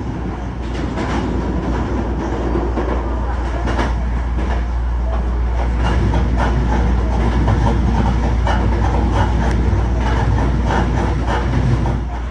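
Hankyu electric train running along the track: a steady rumble with the clatter of wheels over rail joints.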